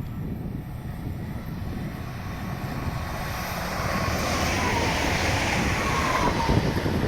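A train approaching and passing, growing louder over the second half, with a single tone that falls in pitch as it goes by.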